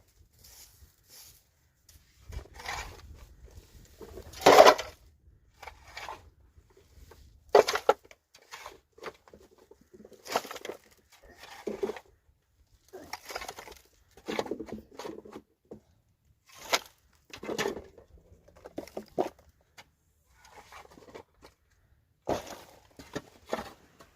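A series of irregular knocks and scrapes, a dozen or more, the loudest about four and a half seconds in, as of hands working with hard materials.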